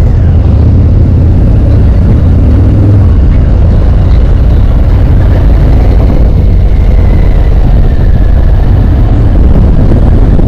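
Harley-Davidson motorcycle's V-twin engine running steadily while riding, mixed with a low wind rumble on the microphone.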